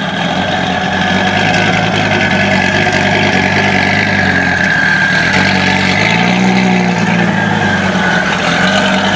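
Car engine idling loudly and steadily, its revs rising briefly about six seconds in and then settling back.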